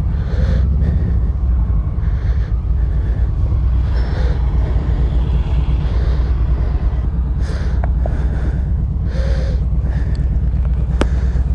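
Motorcycle engine idling steadily at low revs, with a sharp click near the end.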